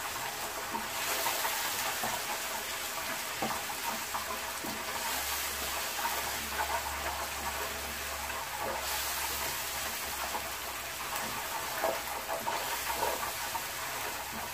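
Spiced onion-tomato masala sizzling in oil in a frying pan as it is stirred with a spatula, with a few light scrapes and taps of the spatula on the pan. The masala is still frying toward the point where the oil separates.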